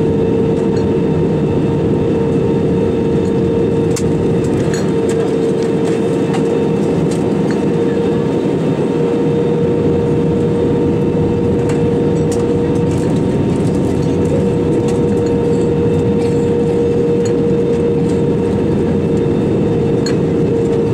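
Steady cabin noise inside a Lufthansa Airbus A320-200 in flight: a loud, even roar of engines and airflow with a steady hum running through it.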